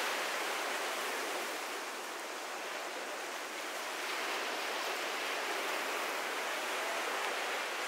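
Ocean surf washing onto a beach: a continuous rushing wash that eases a little partway through and then swells again.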